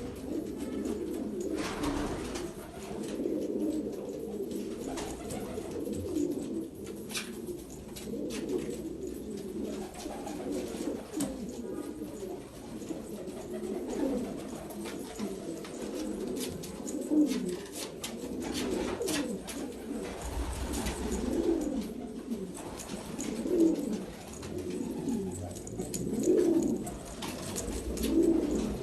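A flock of domestic pigeons cooing, many low coos overlapping continuously, with scattered sharp clicks among them.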